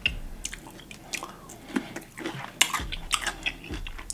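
Someone biting into a pickle spear and chewing it, a run of short crunchy clicks, busiest about two and a half to three and a half seconds in.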